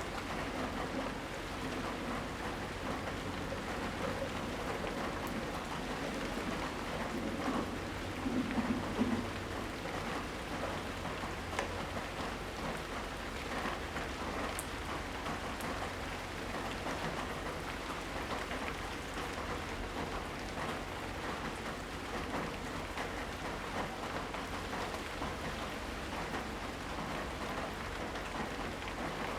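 Steady rainfall pattering on surfaces during a rainstorm, an even hiss with scattered drop ticks. A short low rumble rises briefly about eight seconds in.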